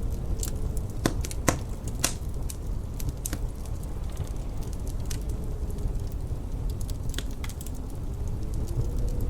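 Wood fire crackling, with irregular sharp pops (the loudest about a second in) over a steady low rumble. Behind it is a faint howling wind that slowly rises and falls in pitch.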